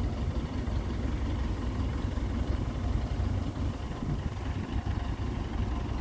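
Truck engine idling steadily, a low, even running sound with no revving.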